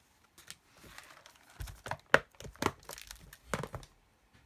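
Crinkling and rustling of packaging being handled, with a cluster of sharp crackles between about one and a half and four seconds in.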